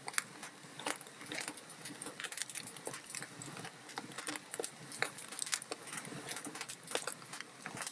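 Wood fire crackling: irregular sharp pops and snaps of burning logs over a soft steady hiss.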